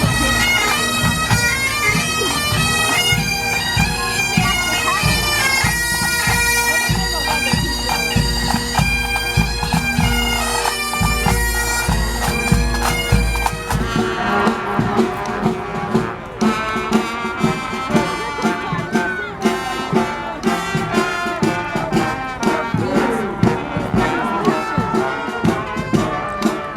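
Pipe band playing: bagpipes with steady drones under the chanter melody, over marching drums. About halfway through the drones stop and band music with a regular marching drumbeat carries on.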